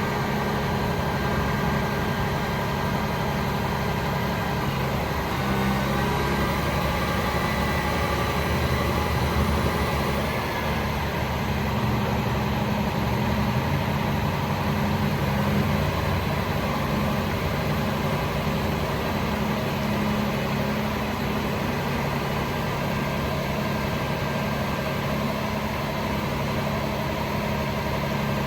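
Cummins L9 turbo diesel of a Freightliner M2 truck idling steadily.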